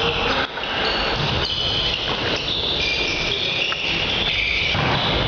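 Volleyball play in an indoor sports hall: short high squeaking tones over a low rumble of movement, with no clear ball strike.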